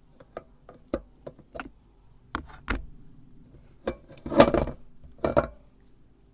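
Colourful candy crunching and clicking in a meat grinder: scattered sharp clicks, with a denser burst of crunching about four and a half seconds in and another shortly after.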